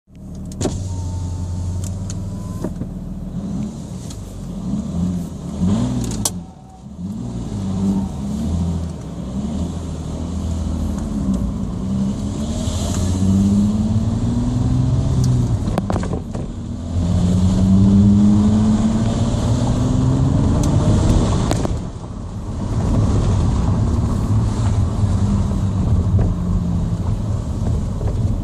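Audi A4 2.5 TDI V6 diesel engine through a straight-through exhaust, running and being revved. First come several quick blips that rise and fall, then a couple of longer, steadily rising revs.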